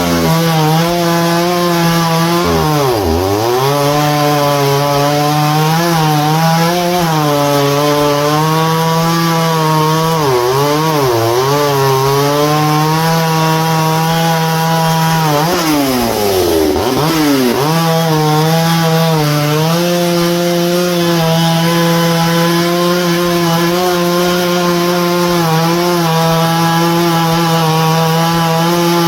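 A stock Pioneer two-stroke chainsaw running at high revs. Its pitch sags sharply and recovers three times, about three seconds in, around ten seconds and around sixteen seconds, as it loads up cutting wood.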